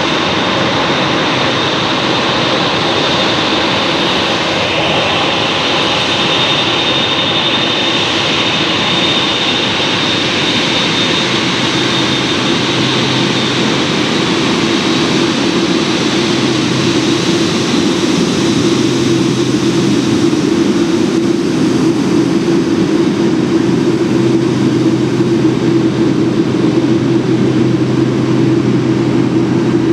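Boeing 747-8's General Electric GEnx turbofan engines running steadily at low power. A thin high whine fades out about twelve seconds in, and a low hum grows stronger from about sixteen seconds on.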